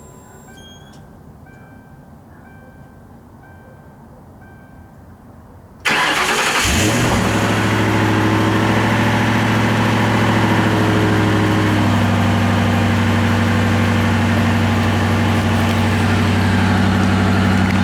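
2009 Ford Crown Victoria Police Interceptor's 4.6-litre V8, on its factory exhaust, cranked and started about six seconds in, then running at a steady idle that settles a little lower about six seconds later. Before the start, a short electronic chime repeats several times.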